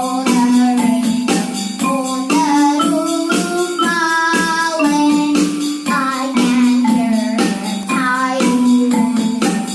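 Electronic keyboard playing a melody over held chords, with a steady percussion beat from the keyboard's rhythm.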